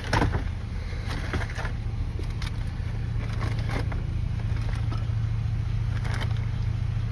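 Vehicle engine idling with a steady low hum, with scattered knocks and clunks of items being handled and loaded.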